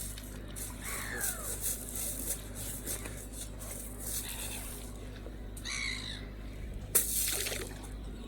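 Birds giving a few separate harsh calls, one falling in pitch about a second in, over a steady low background. There is one sharp knock about seven seconds in.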